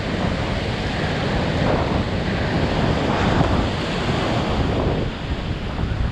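Strong wind buffeting the microphone over the steady wash of surf and rough water churned up by an approaching hurricane.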